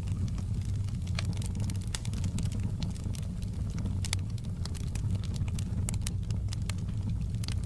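Wood fire burning in a fireplace: irregular sharp crackles and pops of the burning firewood over a steady low rumble of the flames.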